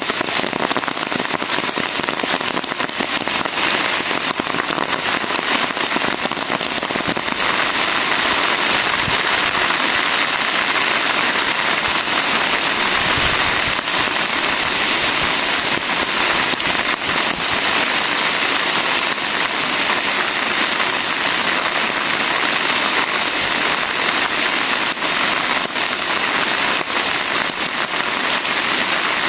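Steady rain, a dense patter of individual drops hitting surfaces, getting heavier about seven seconds in.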